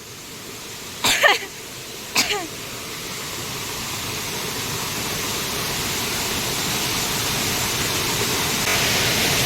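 Waterfall rushing with a steady roar of falling water that grows steadily louder. Two brief vocal cries come about one and two seconds in.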